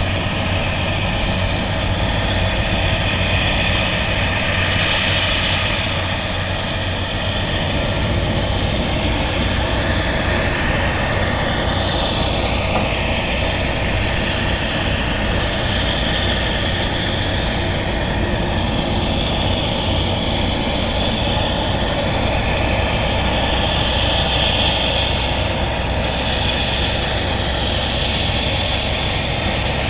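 Jet airliner's engines running steadily as the aircraft moves past, its hiss shifting in pitch, with one clear downward sweep about ten to thirteen seconds in.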